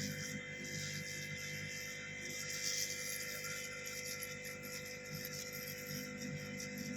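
Steady electric hum with a faint airy hiss from a hot-air tool heating an electric-rickshaw controller's circuit board, driving off thinner left over from cleaning.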